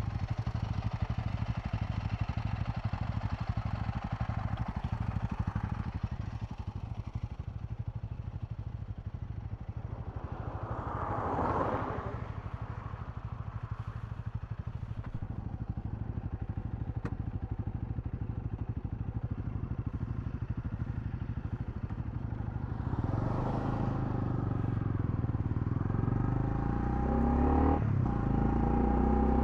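Honda CL250 single-cylinder motorcycle engine running steadily while riding, with road and wind noise. Two swells of noise pass at about 11 and 23 seconds in, and near the end the engine revs climb, with a brief break for a gear change.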